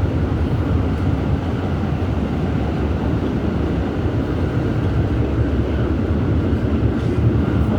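An R211S train car running between stations, heard from aboard. Steady rolling rumble of wheels on the rails.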